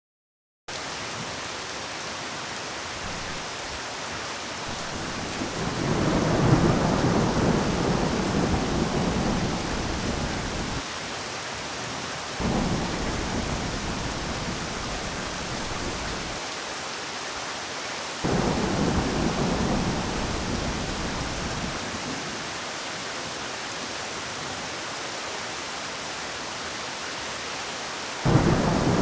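Steady rain falling with rolling thunder: a low rumble swells about five seconds in, and further rumbles begin abruptly around twelve, eighteen and twenty-eight seconds.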